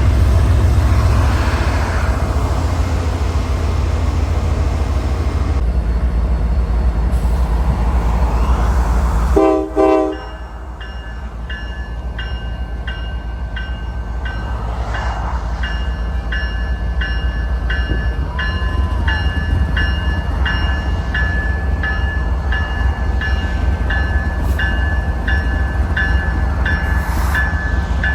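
Vehicle road rumble, then, after an abrupt break about ten seconds in, a railroad grade-crossing bell ringing with steady repeated dings over a low rumble.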